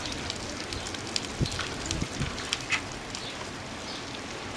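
Rain falling: a steady hiss of rainfall with irregular sharp ticks of drops striking nearby surfaces, and a couple of low thuds about a second and a half and two seconds in.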